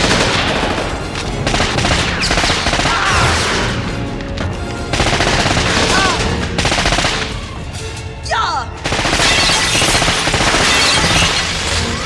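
Film action soundtrack: bursts of automatic gunfire over loud orchestral score, in several dense stretches separated by brief lulls.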